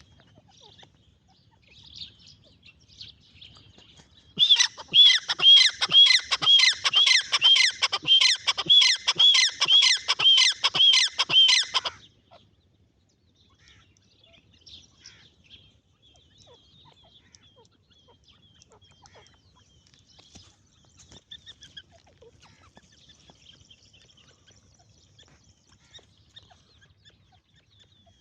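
Francolin (teetar) calling: a loud series of evenly repeated ringing notes, about two a second, lasting some seven seconds, with faint scattered chirps before and after.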